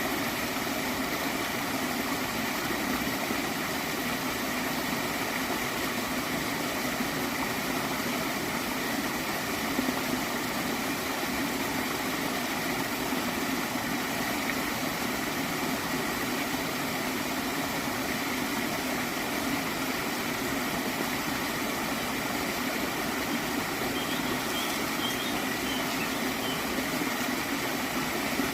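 Gently flowing stream water gurgling, a continuous, even rush with no breaks.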